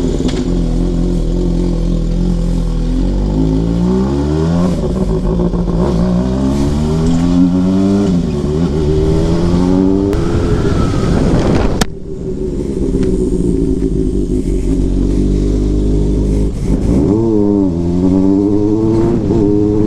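Inline-four motorcycle engine pulling away and accelerating through the gears: the pitch rises and drops several times at the shifts, evens out into steadier running after a brief break partway through, then climbs again near the end.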